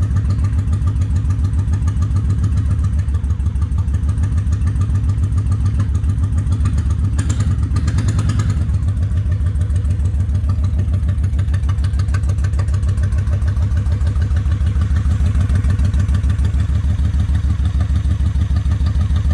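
Honda Shadow 750 ACE Deluxe V-twin engine idling steadily, running on one cylinder. The front cylinder is not firing, which the owner puts down to a clogged carburetor.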